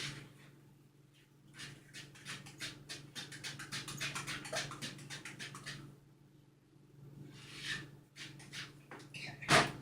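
Wire whisk beating cake batter in a bowl, quick rhythmic strokes at about five a second for several seconds, then a few slower strokes. A sharp knock near the end, the loudest sound, and a steady low hum underneath.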